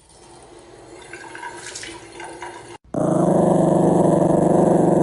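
A dog growling loudly and steadily for about two seconds, starting abruptly after a quieter, noisy first half and cutting off suddenly.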